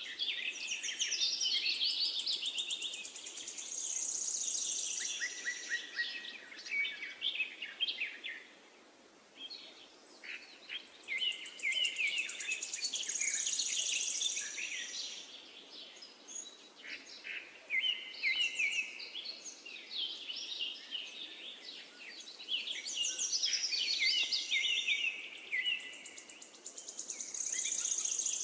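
Songbirds chirping and trilling: rapid twittering phrases in spells of several seconds, with short lulls between, over a faint steady hiss.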